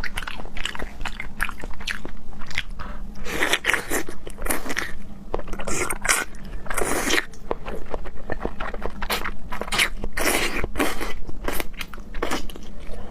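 Close-miked chewing and wet mouth sounds of a person eating raw seafood, with many quick clicks and smacks.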